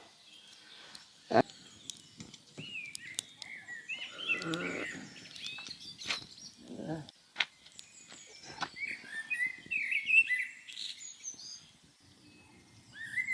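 Small birds chirping in quick, short rising and falling notes, in two busy spells, with scattered sharp knocks, the loudest about a second in.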